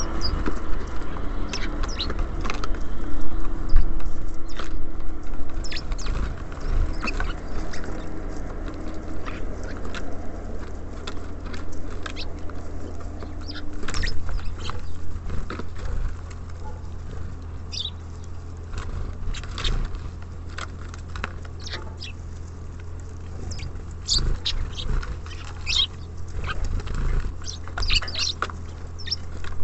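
Small birds feeding at a bird feeder: frequent sharp taps and clicks of pecking and hopping on the feeder, with a few short high chirps in the second half.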